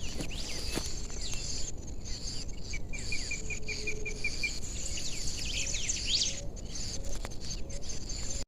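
Evening woodland ambience: a steady high insect chorus with scattered bird calls, including a quick series of about ten short notes around the middle.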